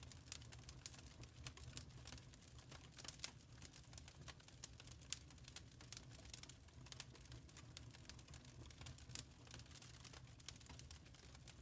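Wood fire crackling faintly in a fireplace: irregular small pops and snaps over a low, steady rumble.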